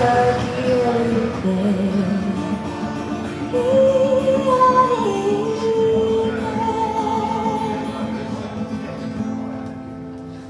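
Live singing with acoustic guitar, the closing phrase of a song: a long held note, with everything fading away near the end.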